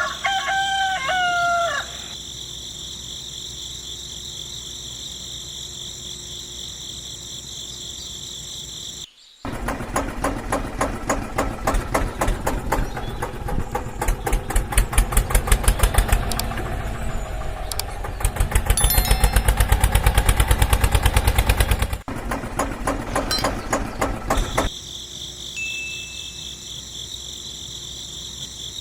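A rooster crows once, then a steady high chirring like crickets. About a third of the way in this cuts to a small engine or motor running with a rapid, even pulsing, louder in two swells, which stops abruptly, and the steady high chirring returns.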